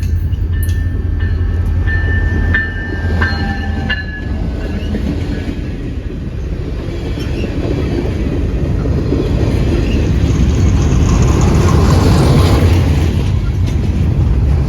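A train rolling past with a steady rumble that grows louder, peaking near the end. Thin high squealing tones are heard over it in the first few seconds.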